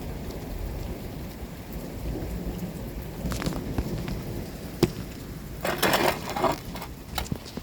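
Thunder rumbling low under steady rain, with scattered sharp taps of raindrops and a louder rush of noise about six seconds in.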